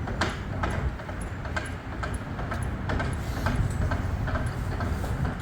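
Hand crank on a truck's sliding tarp system being turned to open it, clicking evenly about twice a second over a steady low rumble.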